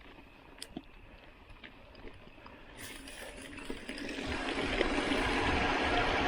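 Mountain bike rolling over a dirt track: a few light clicks and rattles at first, then about four seconds in a steady rushing noise of tyres and wind swells up and stays loud.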